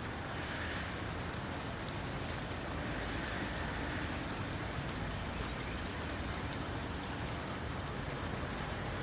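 Steady rain falling, an even hiss with scattered faint, sharp drop ticks.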